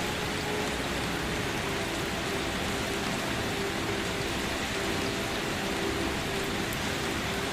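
Steady, gentle rain falling, an even hiss with no separate drops standing out. A faint low hum comes and goes underneath.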